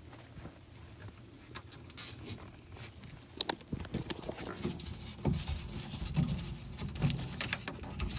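Scattered clicks and rustling from hands handling wiring and a plastic zip tie inside a car door, getting busier from about three seconds in.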